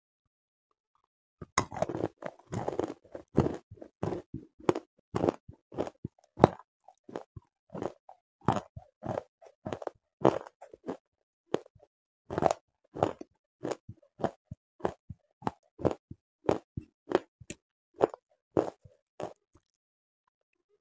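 Close-up chewing of a hard chunk of grey clay. A loud bite about a second and a half in is followed by crisp crunches, rapid at first, then about twice a second, stopping shortly before the end.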